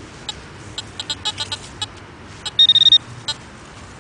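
Handheld metal-detecting pinpointer sounding one steady high alert tone for under half a second, about three seconds in, as it finds another coin in the hole. Around it, scattered small clicks and scraping from digging in the soil.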